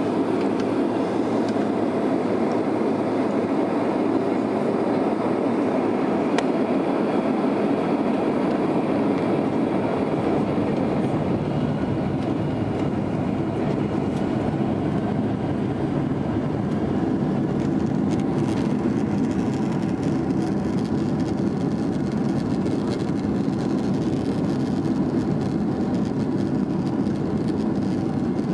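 Steady rumble inside a Boeing 767's cabin with a faint steady whine above it: the jet engines running at low power while the airliner taxis.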